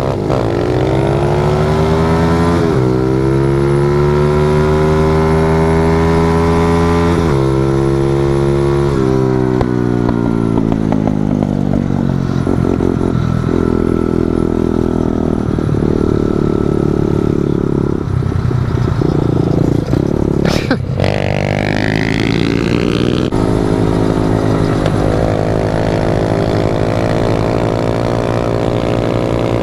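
Pit bike engine pulling through the gears, its pitch climbing and dropping sharply at each shift three times, then holding a steady cruise. There is a sharp click about two-thirds of the way through.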